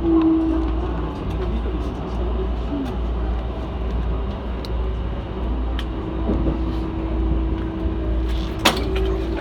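Keikyu train's running noise heard inside the passenger car: a steady low rumble. A steady hum joins about six and a half seconds in, and there is a sharp knock near the end.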